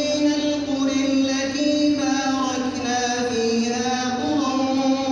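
A man reciting the Quran in a melodic chanted style (tajwid), one voice holding long notes that glide slowly up and down without a break.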